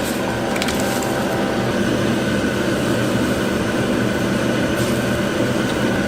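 Egg fried rice sizzling and being scraped and stirred on a hot griddle, over a steady low hum.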